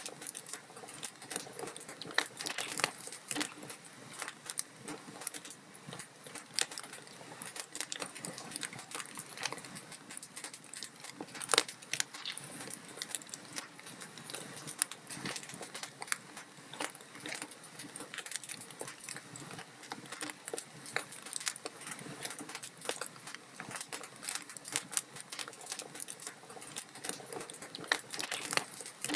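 Wood fire crackling, with dense, irregular snaps and pops over a soft hiss. A louder pop comes near the middle.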